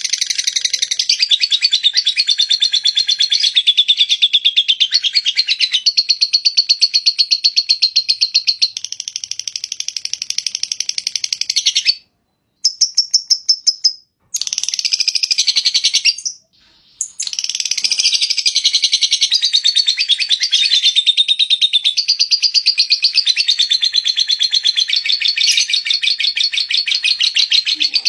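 Lovebird's long 'ngekek' chattering song: a fast, unbroken stream of high, rapidly repeated notes. It breaks off briefly three times around the middle, then carries on.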